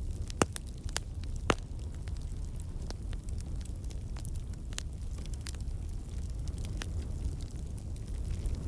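Wood campfire burning: a steady low rumble of flame with scattered crackles and sharp pops from the logs, the two loudest pops within the first second and a half. The crackling comes from water and sap trapped in the wood turning to steam and bursting out.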